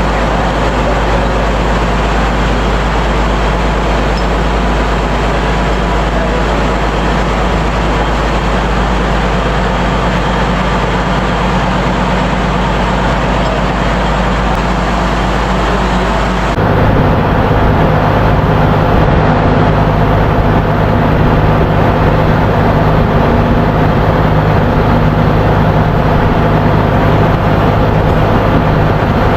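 Loud, steady drone of a ship's engine-room machinery running. About halfway through it changes suddenly to a slightly louder drone with a lower, heavier hum.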